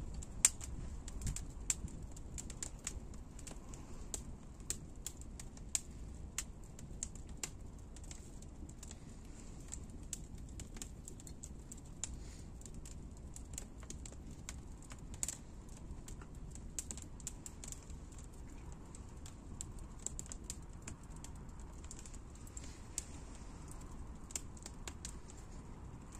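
Wood fire crackling, with irregular sharp pops several times a second over a low steady rumble.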